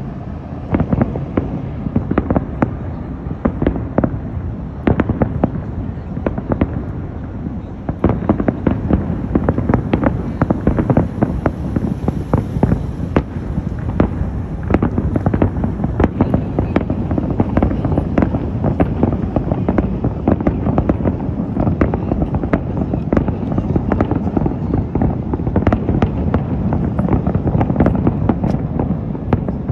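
Aerial fireworks bursting at a distance, a dense run of sharp booms and crackles over a continuous rumble that grows thicker about eight seconds in.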